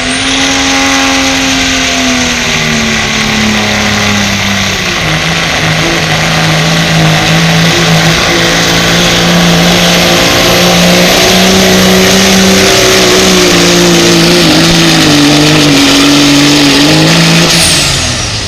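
Engine of a truck-and-tractor-pull competition vehicle at full throttle, dragging the weight-transfer sled down the track. Its pitch wavers and sags as the load builds, with a high whine above it, and it lets off shortly before the end.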